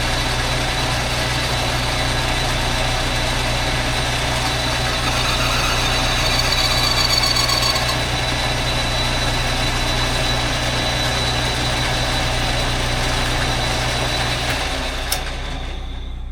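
Metal lathe running, its boring tool cutting a motorcycle cylinder to size, a steady machine drone with a constant high whine. Near the end a click is heard and the drone falls away as the lathe is shut off.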